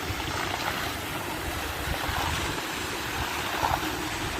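Waterfall water rushing and splashing in a steady, even noise.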